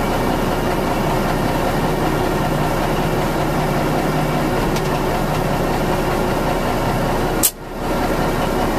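1979 Ford 9000 dump truck's engine running steadily while it drives the hydraulic hoist raising the dump bed. A sharp click comes about seven and a half seconds in.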